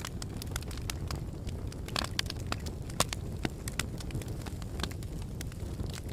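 Wood fire burning in a fireplace: a steady low rumble of the flames with irregular sharp crackles and pops, the loudest pop about three seconds in.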